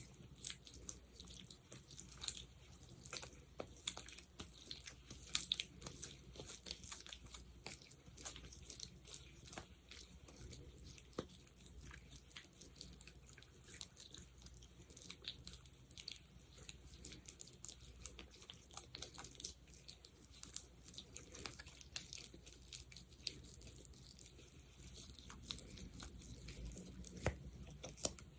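Close-miked sticky, squishy sounds of aloe gel or Vaseline worked between fingers, a dense irregular run of small wet clicks and smacks, several a second.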